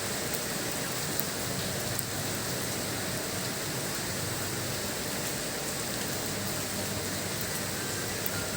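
Steady heavy rain hissing, with a few faint sharp drip ticks.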